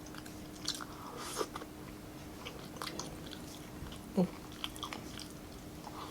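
Close-miked chewing, biting and lip smacks of a person eating grilled chicken and rice, with scattered short wet clicks and a brief low mouth sound about four seconds in.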